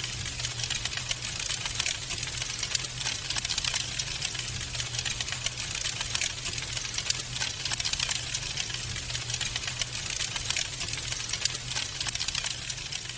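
Wood fire burning in a fireplace, crackling continuously with dense, rapid small pops over a steady hiss.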